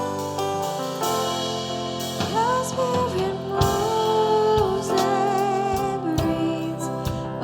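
Worship music: held keyboard chords, with a singing voice coming in about two seconds in and holding long, wavering notes.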